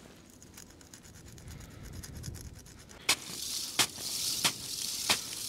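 Footsteps crunching through icy, crusted snow. Faint fine crackling at first, then louder from about three seconds in, with a sharp crunch about every 0.7 seconds.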